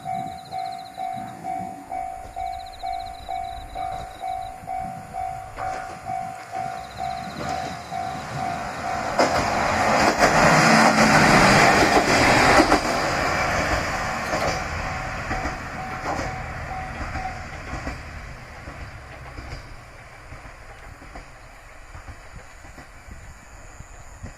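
Level-crossing warning bell dinging steadily about twice a second. About nine seconds in, a Shinkansen-style diesel railcar passes over the crossing, loudest for about four seconds, then fades away. The bell stops a few seconds after the train has gone.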